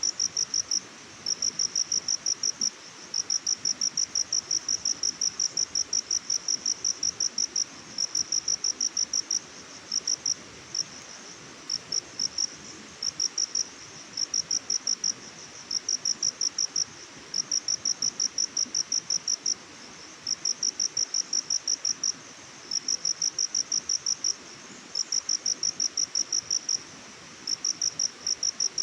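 Cricket chirping in rapid, even high-pitched pulses, about ten a second, in long runs broken now and then by short pauses, over a steady background hiss.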